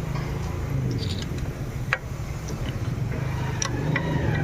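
Tata Manza's common-rail diesel engine being cranked over by the starter, a steady low rhythmic turning sound with a few light ticks. The injector lines are being bled of air, with diesel now reaching them after a shorted fuel pump sensor wire was repaired.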